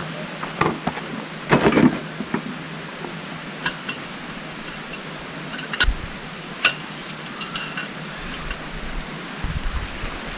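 Insects buzzing steadily in a high, even chorus, with scattered knocks and clicks, the loudest about two seconds in.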